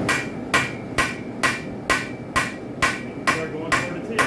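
Hand hammer striking a hot railroad spike on an anvil in a steady rhythm, about two blows a second, each blow with a short metallic ring: the spike is being flattened out to form the knife blade.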